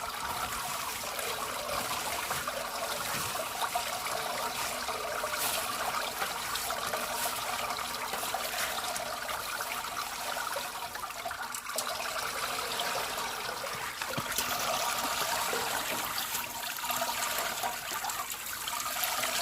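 Fermented malt liquid (yeotgireum water) trickling and splashing in a steady stream as the soaked malt mash is squeezed out and strained.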